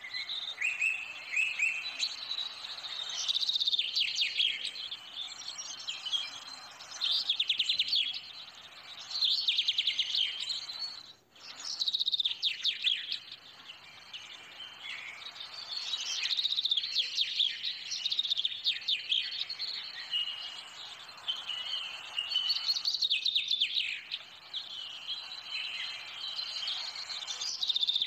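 Songbirds chirping and trilling busily, in bursts every few seconds, with a brief break about eleven seconds in.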